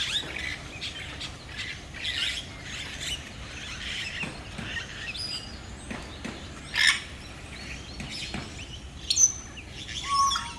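Many birds chirping and calling at once, short high calls overlapping throughout, with a couple of louder sharp calls in the second half.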